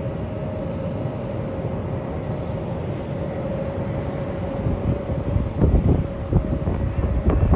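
Jet aircraft engines running in the distance: a steady rumbling hiss with a held whine. From about five seconds in, wind buffets the microphone in gusts.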